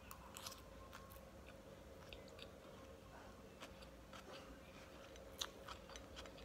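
Faint mouth sounds of a person chewing a spoonful of fried corn rice: small, soft, scattered clicks and smacks, a little louder about half a second in and near the end.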